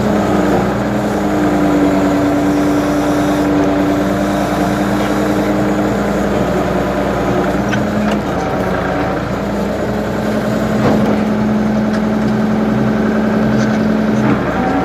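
Ford 550 backhoe engine running steadily, its pitch shifting a little now and then, with a few short knocks.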